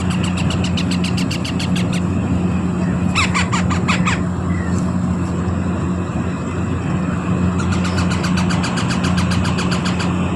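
Baby parrot chicks begging for food with rapid, repeated high squeaking, about nine squeaks a second, in three runs, the loudest short run in the middle. A steady low hum runs underneath.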